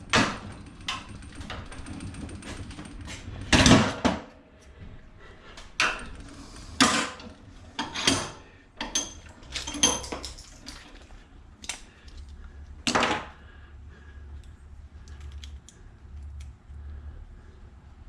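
Scattered clanks, clinks and knocks of metal scrap being handled and pried apart by hand, at uneven intervals, the loudest about three and a half seconds in and again near thirteen seconds.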